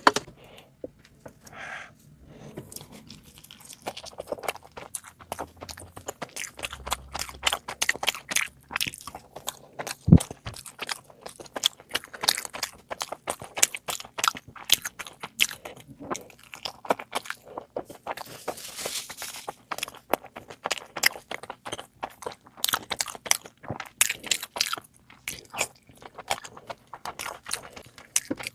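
A person eating close to the microphone: steady chewing and crunching with many sharp, irregular mouth clicks. There is a single thud about ten seconds in.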